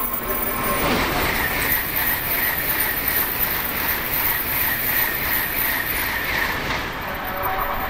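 Tokaido Shinkansen train running past on the curved track: a steady rush of wheel, rail and air noise with a high, pulsing edge. It builds about a second in and eases off near the end.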